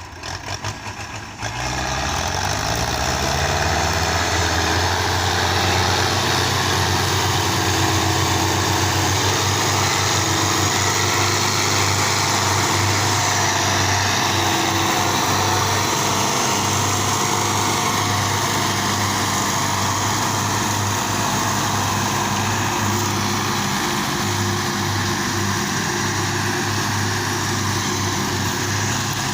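Tractor diesel engine revving up about two seconds in, then running hard at steady high revs.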